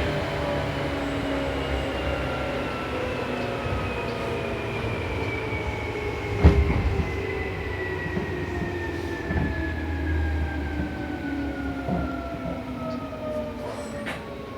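Seibu New 2000 series electric train slowing down, its motor whine falling steadily in pitch as it brakes into a station. There are wheel clicks over the rail joints and one sharp knock about halfway through.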